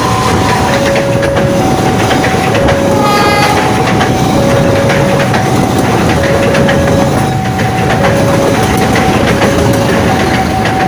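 KAI passenger train running past a level crossing: the locomotive and then the coaches rumble by, with steady clacking from the wheels on the rails. Over it the crossing's electronic warning alarm keeps sounding a two-tone ding-dong, alternating between a higher and a lower note about every half second.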